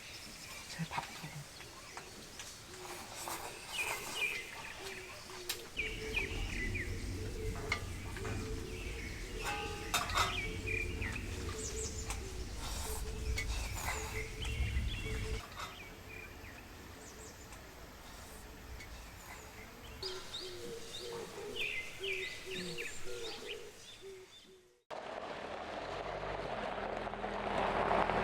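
Small birds chirping on and off, with a low rumble underneath for several seconds in the middle. Near the end the sound cuts off abruptly and gives way to a steady drone that grows louder.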